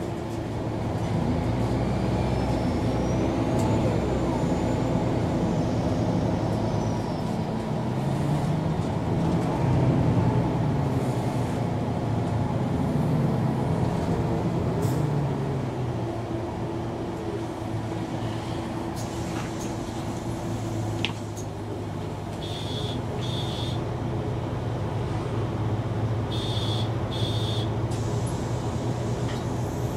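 MAN NG 313 articulated city bus running, its diesel engine rising and falling in pitch as it pulls away and changes gear, then running steadily lower. Two pairs of short high beeps sound in the second half.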